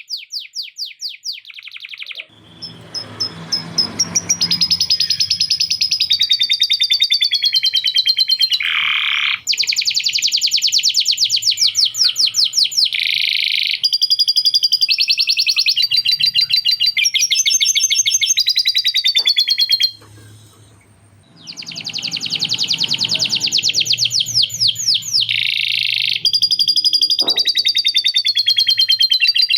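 Male domestic canary singing a long, loud, near-continuous song of fast rolls and trills, notes repeated many times a second, with lovebird-style chattering phrases worked into it. The song breaks off briefly about two-thirds of the way through, and a low rustling noise sits under it twice.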